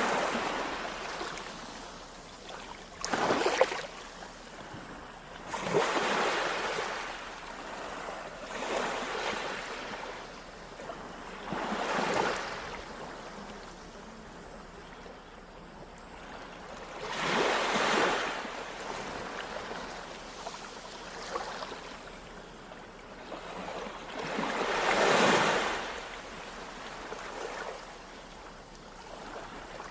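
Small waves washing onto a beach, each one breaking as a swell of hiss every few seconds and then ebbing, the biggest about two-thirds of the way through and near the end.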